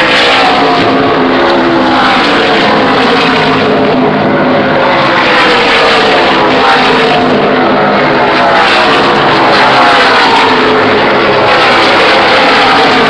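A field of NASCAR stock cars' V8 engines racing past, loud and continuous, with one engine note after another falling in pitch as each car goes by.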